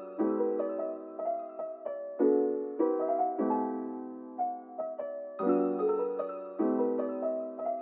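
Background music: a slow music-box tune, single plucked notes that each ring and fade, with no drums or bass.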